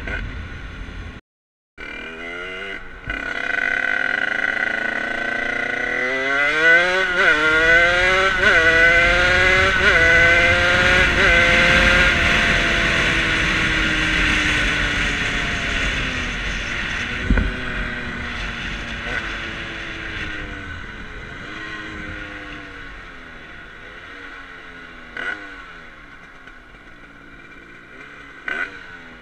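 Rieju MRT two-stroke engine with an 86 cc Top Alu big-bore kit accelerating hard through the gears. Its pitch climbs and drops back at several gear changes, then it holds speed and eases off. The sound cuts out for a moment near the start.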